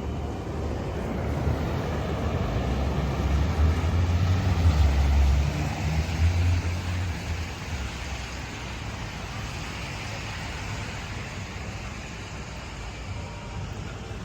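Wet city street noise: a steady hiss with a low rumble that swells about four seconds in and fades away after about seven seconds.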